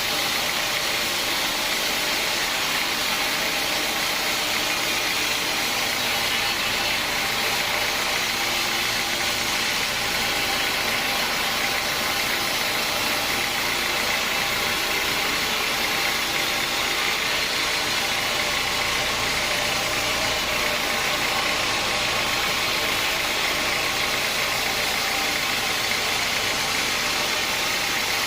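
Sawmill machinery running steadily: a constant, loud mechanical drone and hiss that holds unchanged throughout.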